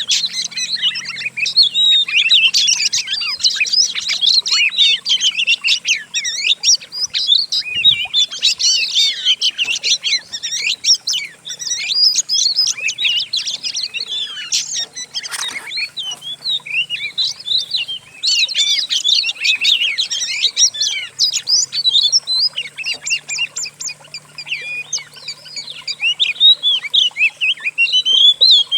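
Several songbirds' songs layered into one dense mix, with rapid overlapping chirps, trills and whistled glides and no pause.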